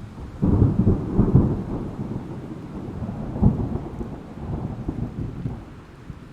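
A peal of thunder over steady rain: the rumble breaks out suddenly about half a second in, gives one sharp crack midway, and dies away near the end.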